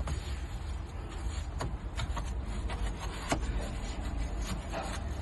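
A few sharp clicks and light knocks from parts being handled, over a steady low rumble.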